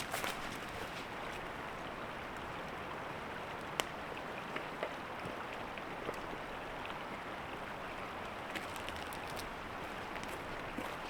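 Steady rushing of a small creek flowing, with a few faint clicks and knocks scattered through it.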